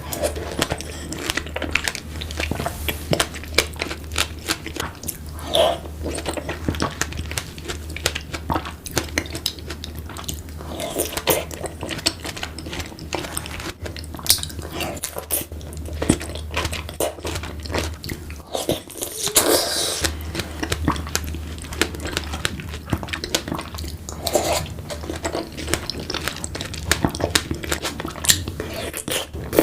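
Close-miked chewing and biting of fresh strawberries with Nutella and whipped cream, a run of wet, uneven mouth clicks and smacks over a low steady hum.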